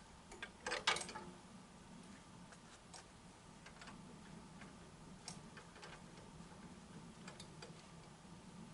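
Scattered light clicks and ticks, with a short louder clatter of several clicks about a second in, over a faint steady low hum.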